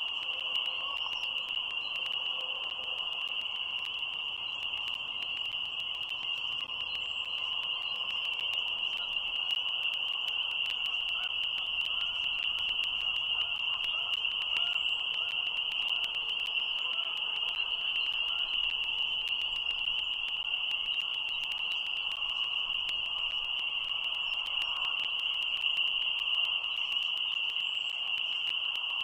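Dense frog chorus: a steady, unbroken high-pitched trilling that never lets up, with faint short chirps scattered above it.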